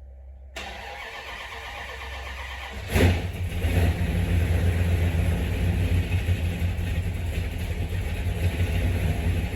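A car engine is cranked over by its starter for about two and a half seconds, catches with a sudden loud burst about three seconds in, and settles into steady running at idle. This is a cold start after the car has sat for about a week.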